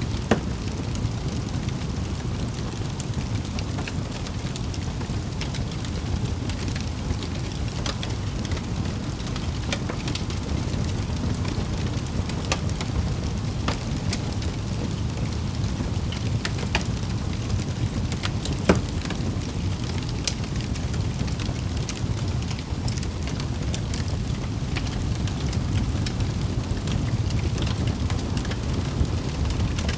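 Wood fire in a fireplace crackling, with a steady low rumble of the flames and scattered sharp pops and snaps, two of them louder, just after the start and about two-thirds of the way through.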